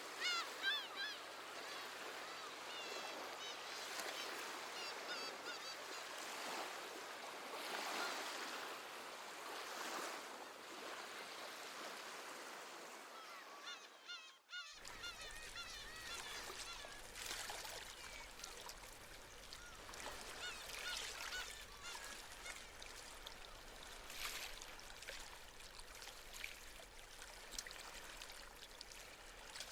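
Waves washing on a shore as a steady hiss with slow swells, while seabirds call repeatedly, in a flurry near the start and again in the second half. The sound drops out briefly about halfway through.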